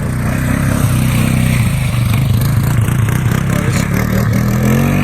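Small off-road engine (dirt bike or four-wheeler) running hard as it is ridden through mud, its pitch wavering with the throttle and rising near the end.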